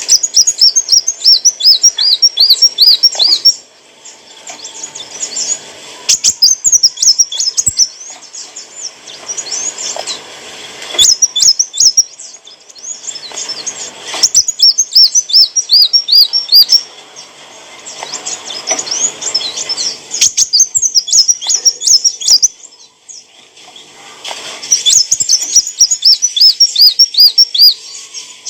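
Kolibri wulung sunbird singing in repeated phrases of rapid, high twittering notes, each a few seconds long, with short pauses between.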